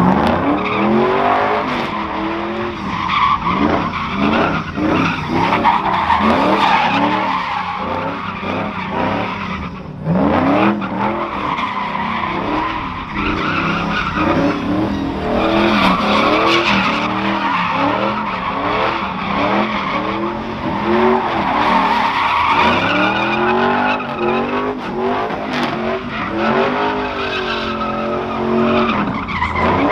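Truck engines revving up and down again and again, with tires squealing.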